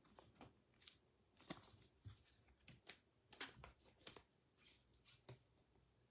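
Faint rustling and light clicks of trading cards being handled and flipped through, in short scattered snaps.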